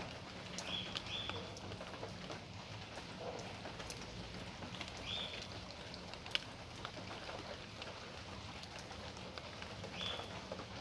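Steady rain with scattered drops tapping. A few short high chirps from a small animal come about a second in, about five seconds in, and near the end.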